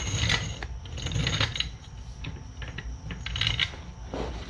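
Irregular metallic clinks and clicks as a jack is worked under a car's suspension to line the axle and hub up, over a steady low rumble.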